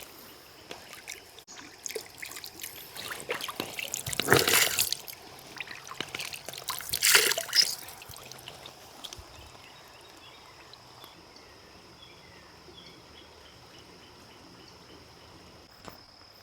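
Water poured or splashed in two short bursts, about four and seven seconds in, among small clicks and knocks of handling, then a faint steady background.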